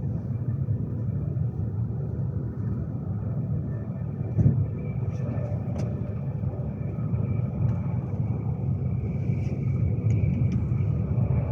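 Steady low rumble inside the passenger saloon of a Class 390 Pendolino electric train, with a faint steady high hum, scattered light clicks and one brief thump about four and a half seconds in.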